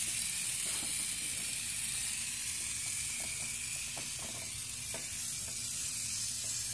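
Aerosol can of tire foam spraying in a long, steady hiss, with a few faint clicks.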